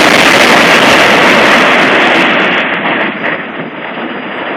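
Loud roar of explosive demolition charges and the concrete-and-steel highway bridge coming down just after the blast, fading away about three seconds in.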